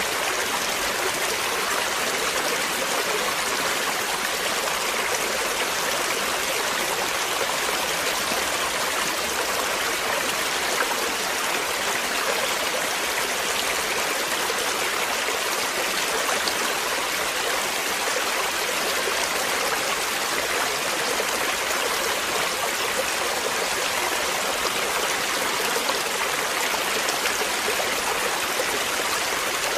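Running water flowing steadily, an even hiss with no breaks or changes.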